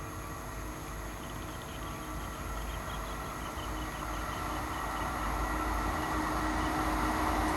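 Express train approaching on the line, its rumble growing steadily louder.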